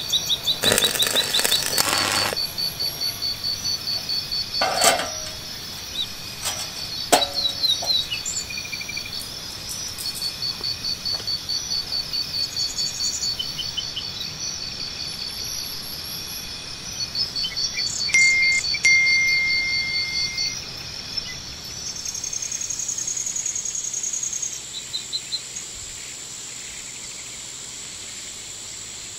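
Outdoor nature ambience: insects chirping in long trains of fast, high-pitched pulses, with birds calling over them, one call a steady whistle held for about two seconds. A few sharp clicks come in the first seconds.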